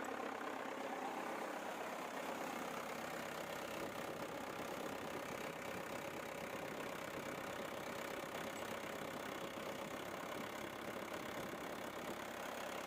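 Diesel engine of an Ajax Fiori Argo 2000 self-loading concrete mixer idling steadily after a fresh oil change, running while the oil and diesel filters are checked for leaks.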